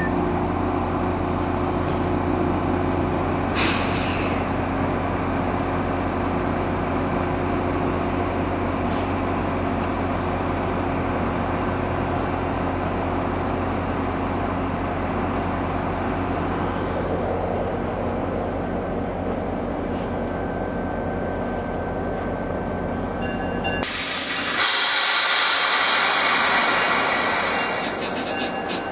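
Commuter train standing at a station platform: a steady low hum and rumble, with a brief clatter about three and a half seconds in. Near the end a loud hiss of air starts suddenly and runs for about four seconds before fading.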